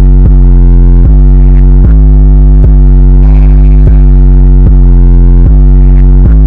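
Loud electronic music: a distorted synthesizer line over a deep, steady bass, with a new note struck about every 0.8 seconds in a repeating pattern.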